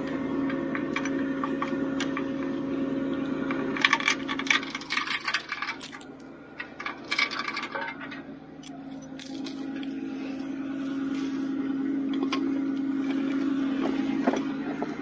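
Metal clinking and rattling as the steel fittings of a recovery truck's underlift are handled and slotted into place, in clusters of sharp clicks about four, seven and nine seconds in. A steady hum runs underneath, fading out in the middle and returning near the end.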